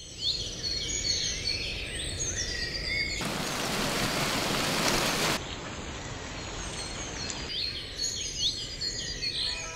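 Birds chirping and calling, many short gliding chirps, over a low steady rumble of outdoor ambience. About three seconds in a loud, even hiss rises over everything for about two seconds, then the chirping returns.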